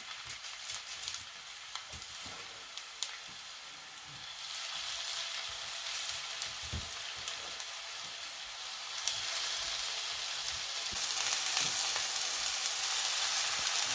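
Chicken seekh kebabs shallow-frying in a little oil in a pan: a steady sizzle with a few light clicks in the first seconds. The sizzle grows louder about halfway through and again near the end.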